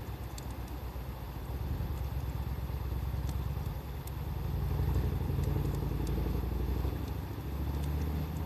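Wood fire crackling with scattered sharp pops, over a loud low rumble that swells and eases, like a passing engine or wind.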